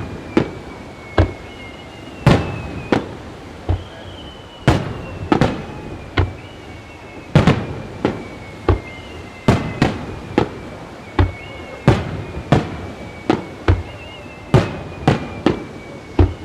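Aerial firework shells bursting in quick, irregular succession, about one to two loud bangs a second, each with a short rumbling tail. A thin high whistle glides down in pitch over the bangs, repeating about every one and a half seconds.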